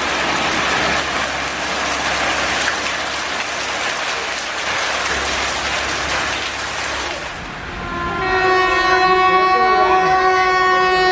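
Steady hiss of heavy rain with a train on the line, then about eight seconds in an Indian Railways locomotive horn sounds one long, steady, multi-tone blast.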